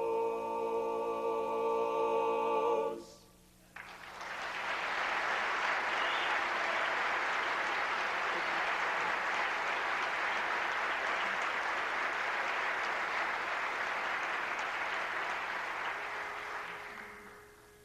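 A barbershop quartet holds the song's final chord, which cuts off about three seconds in. After a brief pause an audience applauds steadily, fading out near the end.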